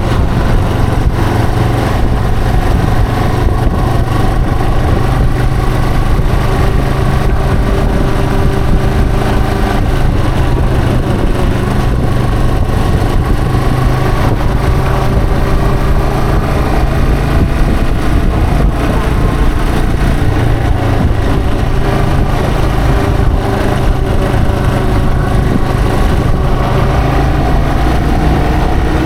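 Yamaha TW225's single-cylinder four-stroke engine running steadily, heard from on the bike, its note drifting slightly up and down with the throttle.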